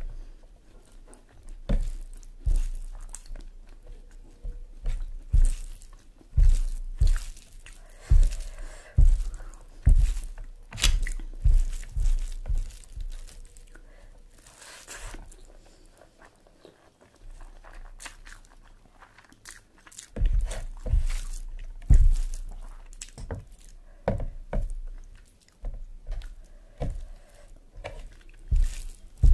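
A person eating close to the microphone: irregular chewing and biting with crunchy clicks and low thumps. It goes quieter for a few seconds around the middle.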